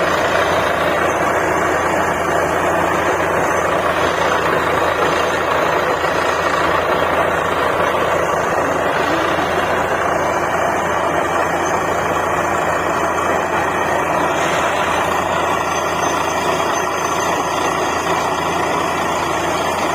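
Truck-mounted DTH borewell drilling rig running steadily: diesel engine and drilling noise at a constant, loud level.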